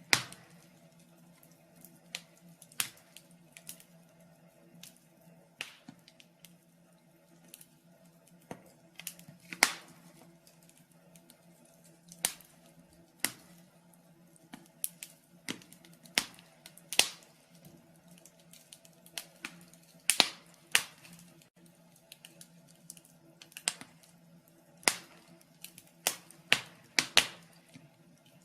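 Wood fire crackling in a fireplace: irregular sharp pops and snaps, sometimes single and sometimes in quick clusters, over a faint steady low hum.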